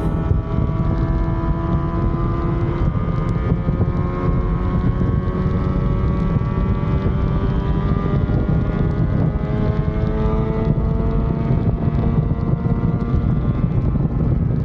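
Yamaha RD250 two-stroke twin engine pulling under way, its note climbing slowly as the bike gains speed, with wind rumbling over the microphone.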